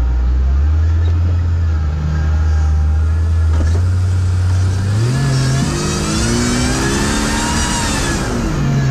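A competing off-road sprint car's engine runs hard, its pitch climbing in steps. A high whine rises and falls over the last few seconds.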